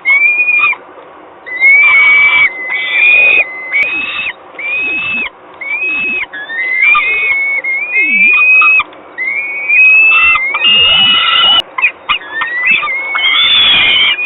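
Peregrine falcon calling over and over at the nest: a string of loud calls that rise and then hold, about one a second. The calls turn harsher and more crowded near the end.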